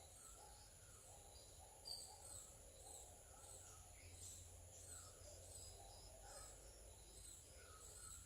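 Faint, repeated short high chirps of small birds, over a low steady hum.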